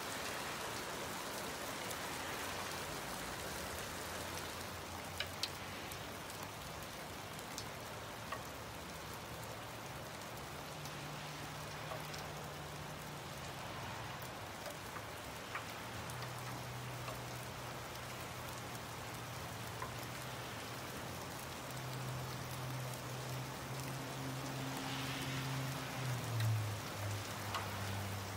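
Steady rain falling on pavement and grass, with a few sharp drip ticks. A low steady hum joins partway through and drops in pitch near the end.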